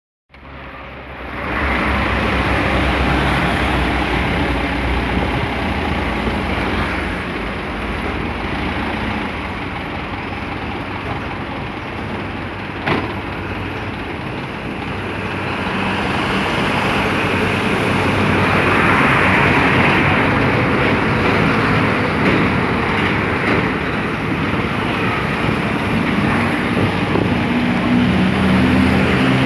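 Dump truck engine running steadily with road-style noise, getting somewhat louder in the second half. There is one short sharp knock about 13 seconds in.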